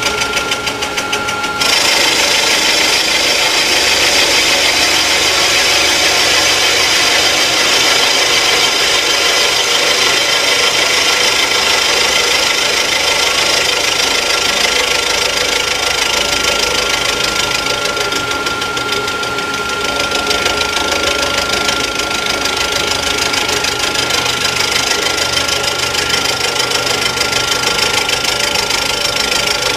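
Rottler F90Y CNC engine machining centre cutting metal while repairing water holes in an engine block. The cutting noise is dense, with a thin, steady high whine running through it, and it gets louder about two seconds in.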